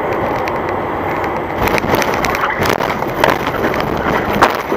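Vehicle road and wind noise heard from inside a moving car, with several sharp knocks a couple of seconds in and one more near the end.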